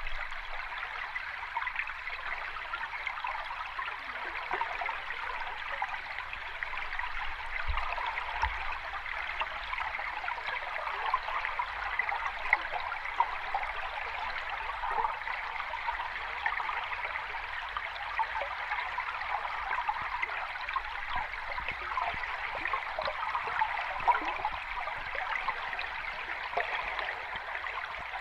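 Water rushing and trickling steadily, with fine gurgling detail and no slow rise and fall of breaking waves.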